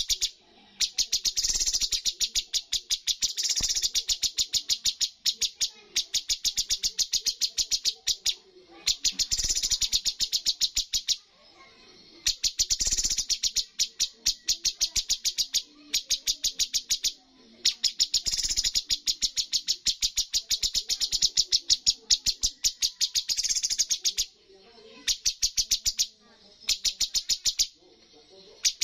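Cucak cungkok singing a rapid-fire run of repeated sharp notes, in bursts of one to three seconds separated by short pauses.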